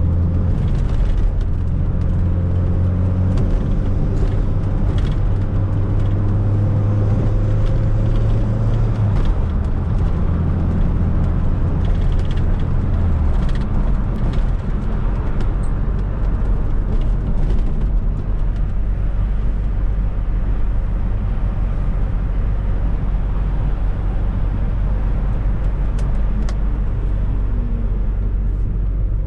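Fiat Coupe 16V Turbo driving, its turbocharged four-cylinder engine holding a steady note for the first dozen seconds or so, then giving way to a steady low tyre and road rumble. Scattered light clicks and rattles sound over it.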